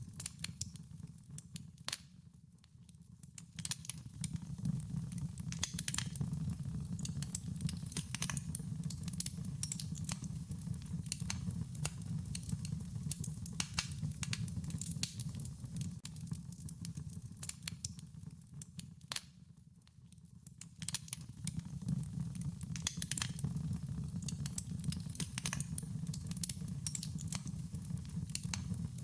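Wood fire crackling, irregular sharp pops and snaps over a steady low rumble of burning. It dips quieter briefly about two seconds in and again about twenty seconds in.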